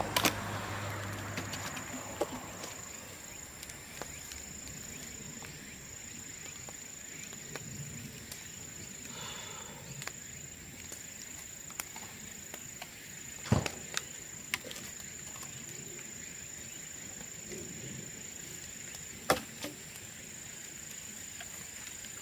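Bamboo burning in an open bonfire: a low crackle broken by a few sharp pops, a cluster of them about 13 to 15 seconds in and another near 19 seconds, as the sealed sections of the bamboo burst in the heat. A steady high insect trill runs underneath.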